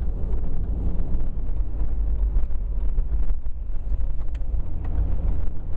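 Steady low road and engine rumble of a four-wheel-drive vehicle being driven, heard from inside the cabin.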